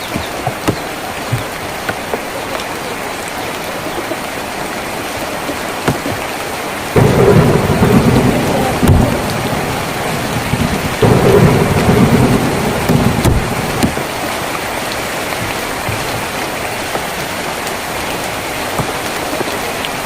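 Steady rain falling on a tin roof, with single drops striking sharply now and then. About seven seconds in, thunder rumbles loudly twice, each roll lasting two to three seconds, well above the rain.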